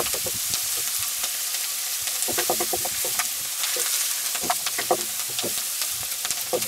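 Diced onions and bacon sizzling in butter in a wok over charcoal, stirred with a wooden spatula that scrapes and taps against the pan. A steady sizzle runs under frequent short clicks from the spatula.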